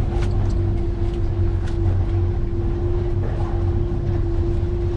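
Boat engine running steadily aboard a Stabicraft 2050 Supercab aluminium boat under way, heard from inside the cabin: a low rumble with a steady hum over it and a few light ticks.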